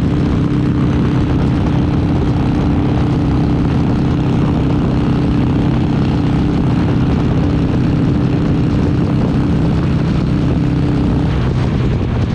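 Harley-Davidson Sportster 883's air-cooled V-twin running at a steady cruising speed, its note shifting slightly near the end.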